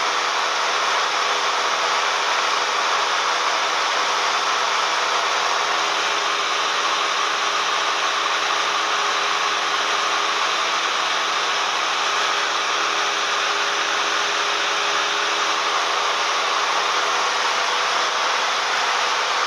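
Cessna 172M's four-cylinder Lycoming engine and propeller droning steadily, heard from inside the cabin, with a hiss of air noise over a low steady hum.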